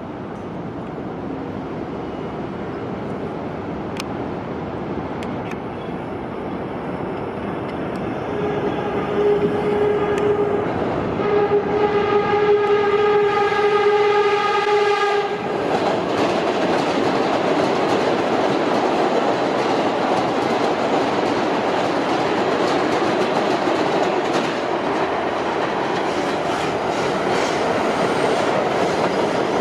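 New York City Subway train sounding its horn twice as it approaches, a short blast then a longer one of about four seconds, then passing with loud, steady running noise of wheels on rail.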